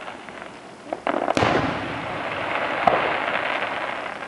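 Aerial fireworks shells bursting: a few sharp bangs, the loudest about a second and a half in and another near three seconds, followed by a dense noisy wash that slowly fades.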